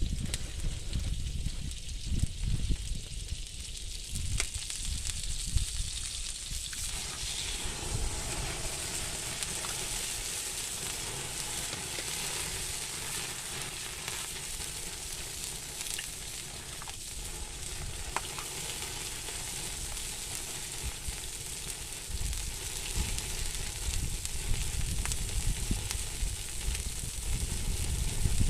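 Eggs cooking in butter on a hot stone, sizzling with a steady hiss and a few scattered pops. Low rumbling comes in during the first few seconds and again near the end.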